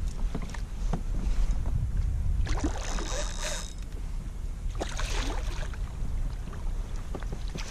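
Wind buffeting the microphone as a steady low rumble, over water moving along a kayak's hull in a strong current. A short hiss comes about three seconds in.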